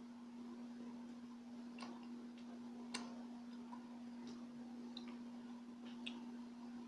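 Faint, irregular wet clicks and smacks of a mouth chewing sticky Filipino rice cakes, a few to the second, over a steady electrical hum.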